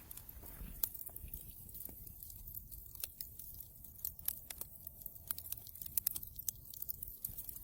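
Wood fire in a fireplace crackling: frequent sharp pops and snaps over a low, steady rumble of the flames.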